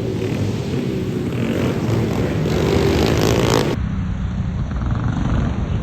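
Small off-road motorcycle engines (pit bikes) running on track, revving up in pitch for a moment about three seconds in. The sound changes abruptly just before the four-second mark.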